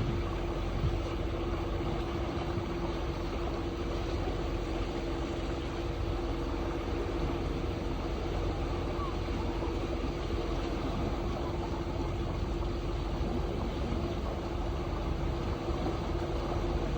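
Tour boat's motor running steadily with a constant hum, over the rush of water and air moving past the boat.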